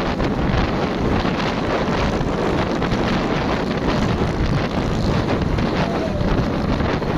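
Wind blowing hard on the microphone, mixed with the steady noise of road traffic.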